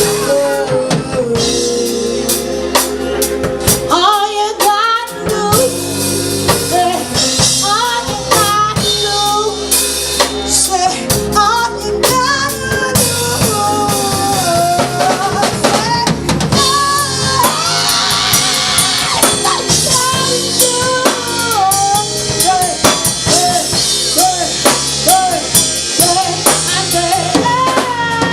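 Band music with a drum kit playing a steady beat on bass drum and snare with rimshots, under a wavering melody line.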